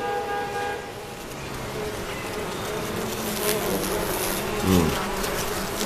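Film soundtrack of woodland ambience: insects buzzing steadily, with a short falling squeal about four and a half seconds in.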